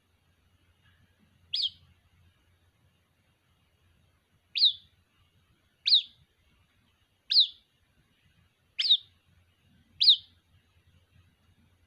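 White-breasted waterhen chick calling for its parent: six short, high peeps, each sliding quickly downward in pitch, spaced one to three seconds apart.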